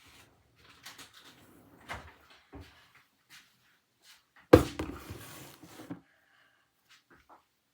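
Kitchen handling sounds: scattered light knocks and clatter of containers, with one loud knock about four and a half seconds in followed by a second or so of rattling.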